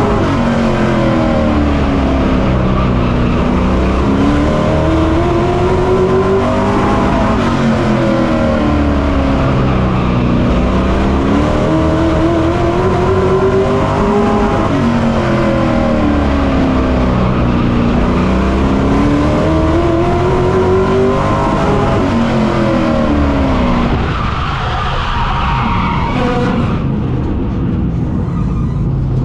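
Pro Truck race truck's engine heard from on board, running at full race pace. The pitch climbs down each straight and falls into each turn, lap after lap about every seven seconds. About 24 seconds in, the engine drops off to a lower, quieter note as the throttle comes off.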